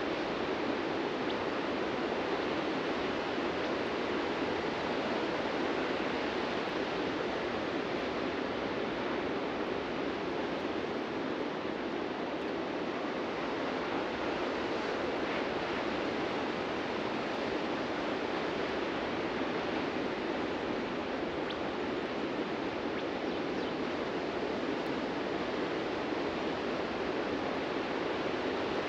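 Surf washing onto a beach, heard as a steady, even rush of breaking waves with no single crash standing out.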